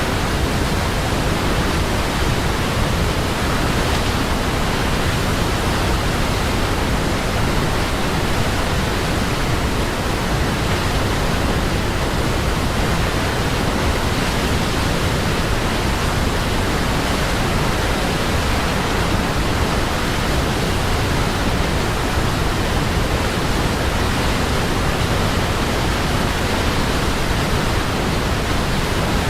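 Waterfall: water falling and rushing in an even, steady roar with no breaks or changes.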